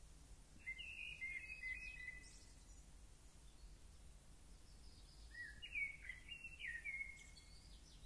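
A songbird singing two short warbled phrases of whistled notes, one about a second in and one about five seconds in, each with a few fainter high notes after it, over a steady low background hum.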